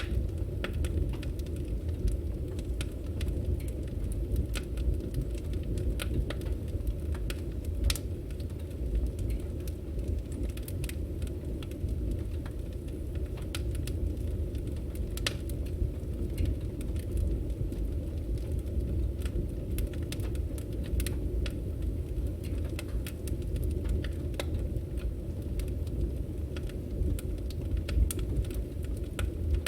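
Burning firewood: a steady low rumble of flames with irregular crackles and pops from the logs, a few sharper snaps standing out.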